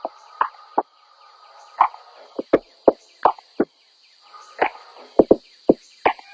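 A series of sharp, irregularly spaced knocks, about a dozen, over a faint steady high hiss.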